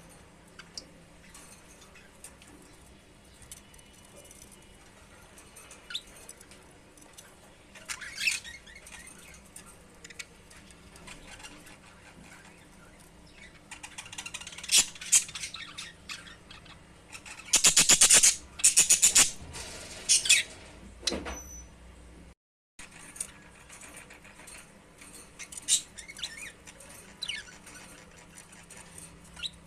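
Pet budgerigars chirping and chattering in short, scattered calls, with a loud burst of rapid, sharp chirps about two-thirds of the way through.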